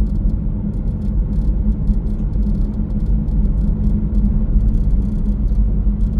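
Steady low rumble of a car driving at road speed, heard from inside the cabin: tyre and engine noise with no change in pace.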